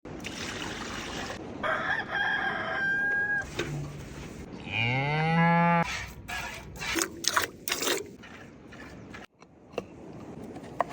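Farmyard animals: a chicken calls about two seconds in, then a cow gives one loud moo about five seconds in, its pitch rising as it goes. A few sharp clicks follow.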